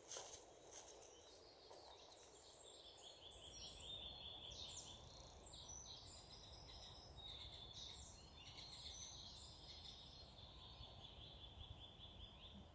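Faint woodland birdsong: rapid trilling runs of high notes with scattered higher chirps, starting about two seconds in.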